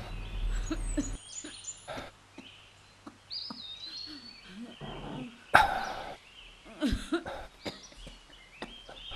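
Birds chirping in short gliding calls, with scattered knocks and one loud sudden sound about five and a half seconds in.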